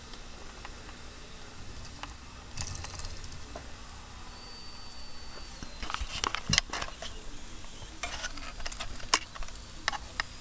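Weeden 645 toy live-steam engine coming up to pressure: a steady faint sizzle from the heating boiler, with sharp clicks and spits in the second half and a brief thin whistle a little before the middle. The sizzle comes from steam escaping at the pressure valve, whose new gasket the owner thinks is not holding well.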